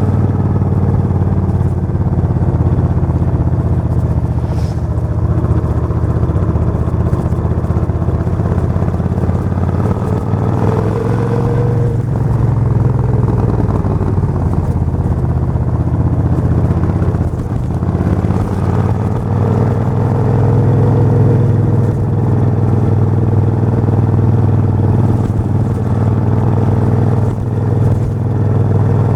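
Suzuki VS1400 Intruder's 1400 cc V-twin engine running with a steady low exhaust note that eases off and swells again a few times.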